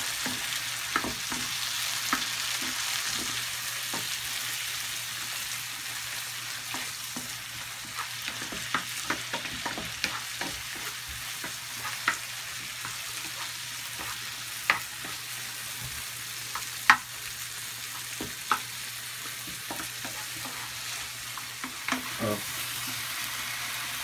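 Tomato wedges, onion and garlic sizzling as they sauté in a nonstick frying pan, stirred with a wooden spatula. Scattered sharp taps and scrapes of the spatula against the pan sound over the steady hiss of the frying.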